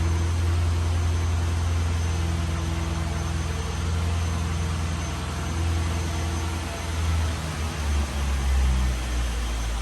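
A steady low mechanical hum with a few even tones, dropping slightly in pitch about eight seconds in.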